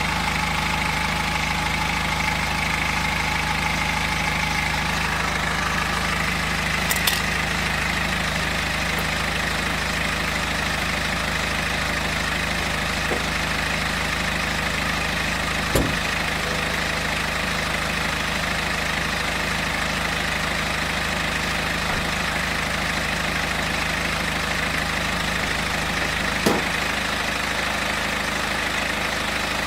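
BMW X3 F25 20d's N47 two-litre diesel idling steadily, with a whine over the engine note and a few sharp clicks. The owner suspects a worn timing chain.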